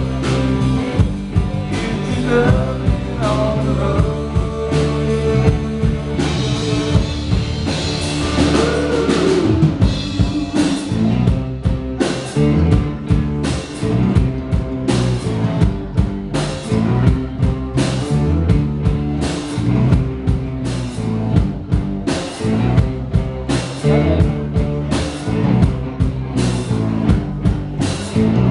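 Live rock band playing: a drum kit keeps a steady beat under electric guitar.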